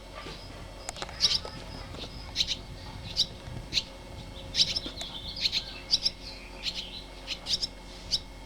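Young songbirds at a porch nest chirping, short high chirps repeated at irregular intervals, sometimes two or three in quick succession.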